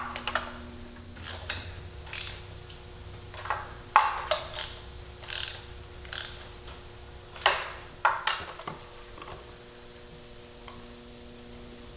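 Ratchet wrench clicking in irregular short runs as new spark plugs are run in and tightened. The clicking stops about nine seconds in.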